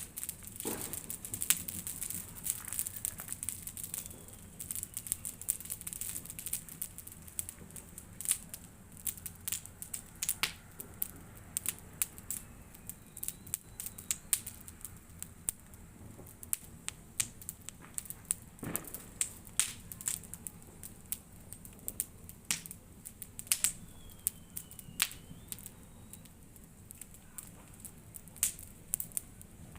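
A large wood bonfire crackling, with many irregular sharp pops and snaps and a louder pop about two-thirds of the way through.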